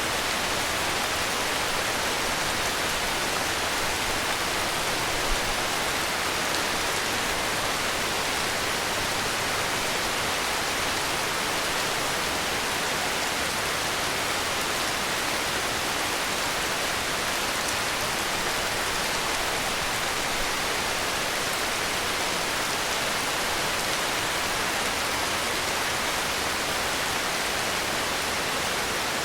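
Steady heavy rain, an even hiss of rainfall with no change in intensity, and one faint brief tick about five seconds in.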